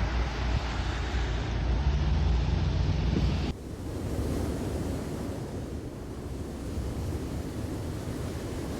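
Steady rushing wind noise on the microphone, under a heavy low rumble that cuts off abruptly about three and a half seconds in, leaving a lighter, steady rush.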